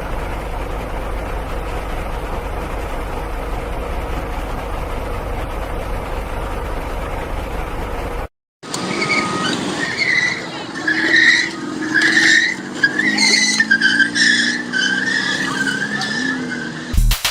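A car on the move with steady engine and road rumble, then after a cut, tyres squealing in loud, wavering surges as a car skids.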